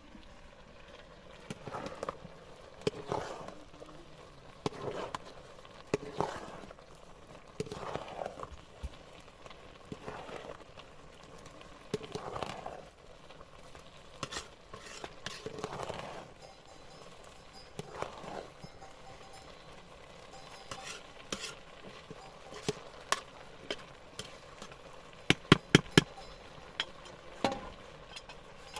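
Repeated scraping strokes, about one every one to two seconds, each falling in pitch, like stirring or scraping in a pot or pan, with a quick cluster of sharp clinks near the end.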